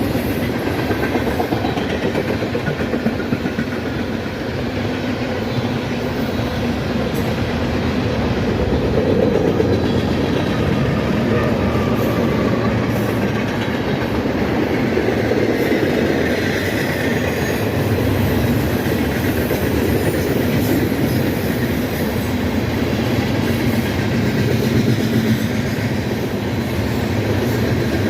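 Long freight train's cars rolling past, with a steady run of wheel-on-rail noise.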